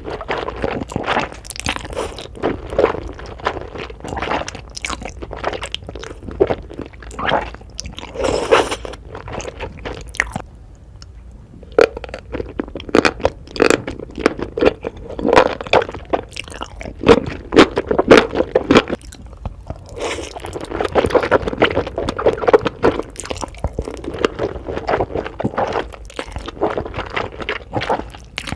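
Close-up crunchy chewing and biting of food, a rapid irregular run of crisp crunches with a short lull about ten seconds in.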